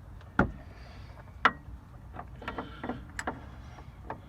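Hand tools clinking and knocking on metal: two sharp strikes about a second apart, the second ringing briefly, then a run of lighter clicks.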